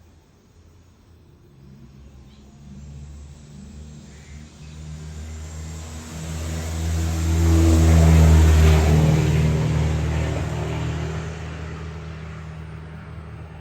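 A motor vehicle driving past: its engine and road noise build up, are loudest about eight seconds in, then fade away.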